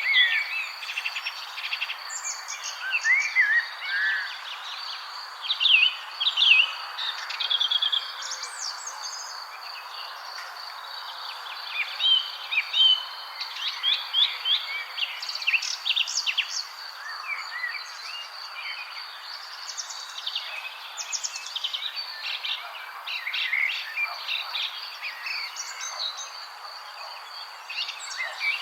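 Several songbirds chirping and trilling in quick, overlapping calls, over a steady high-pitched hum and a soft background hiss.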